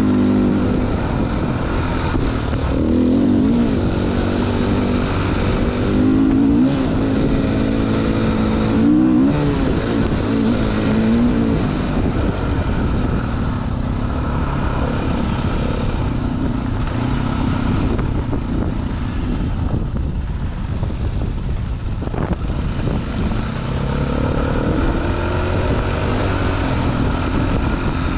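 Dirt bike engine being ridden off-road, its pitch rising and falling repeatedly as the rider opens and closes the throttle and shifts.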